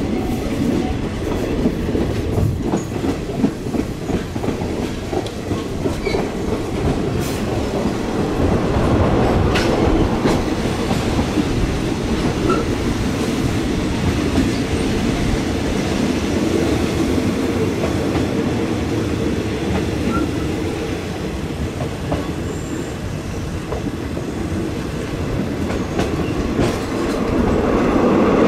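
Passenger train running along the track, heard at an open carriage window: a steady rumble of wheels on rail with scattered clicks, growing louder near the end.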